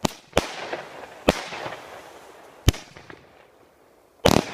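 Fireworks exploding: five sharp bangs at irregular intervals, each trailing off in a short hiss, with a quick double bang near the end.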